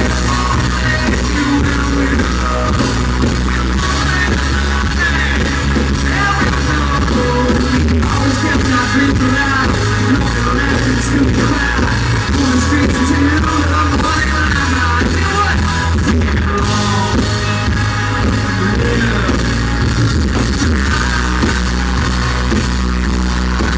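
Live country band playing a song: lead vocals over drum kit, bass, electric guitar and keyboards, loud and coarse in a poor audience recording.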